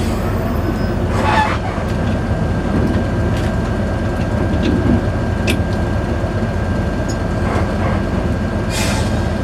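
Steady rumble of a coach's engine and road noise inside the passenger cabin while the bus is driving, with a thin steady whine from about two seconds in and a couple of short hisses, one near the start and one near the end.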